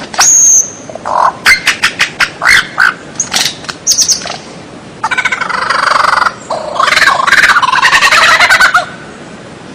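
White-rumped shama singing: a short high whistle, a quick run of sharp separate notes, then two long harsh rattling chatters in the second half.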